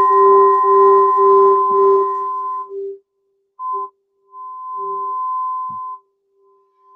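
Singing bowl ringing from a strike just before, two steady tones with a slow pulsing beat, fading over the first three seconds. Then the ring cuts in and out, with a held tone in the middle.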